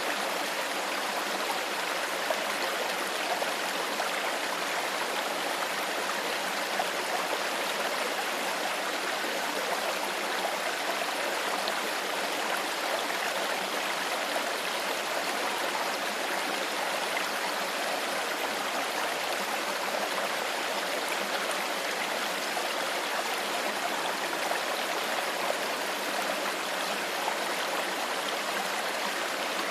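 Shallow stream flowing over stones, a steady babbling and trickling of water.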